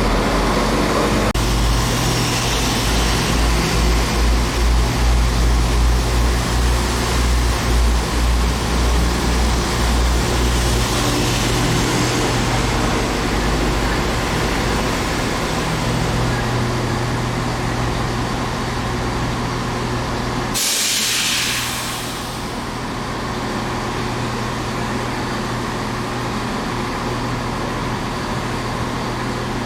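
Diesel train at a station, its engine running with a throbbing low rumble that eases after about ten seconds. About two-thirds of the way through comes a short, sharp hiss of air, typical of an air brake, and after it a steadier, quieter hum.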